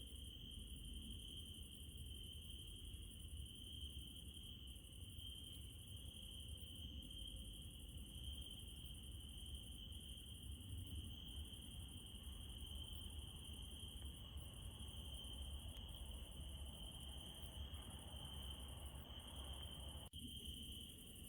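Crickets trilling steadily at night in one continuous high-pitched band, over a faint low rumble. The sound cuts out for a moment near the end.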